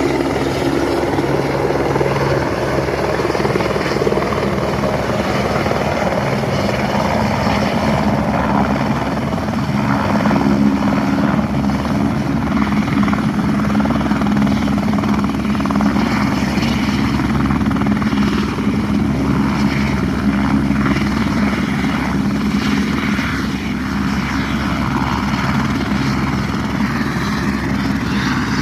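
Helicopter running steadily, its rotor giving a fast low beat under a constant engine drone.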